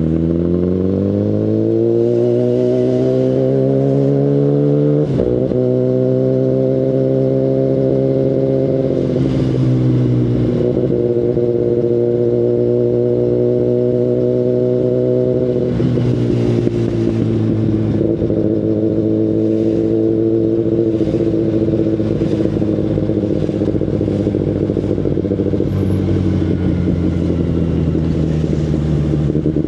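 2019 Kawasaki Ninja ZX-10RR's inline-four engine through an Akrapovic Evolution Line carbon full exhaust, heard from on board while riding. It climbs in pitch through the revs at first, breaks briefly for a gear change about five seconds in, then runs at a fairly steady pitch with a few drops in revs later on.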